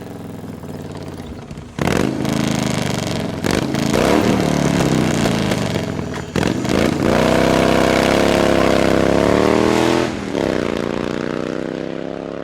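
Motorcycle engine revving and accelerating. It grows louder about two seconds in, climbs in pitch around seven seconds and holds high, then drops about ten seconds in and winds down as it fades.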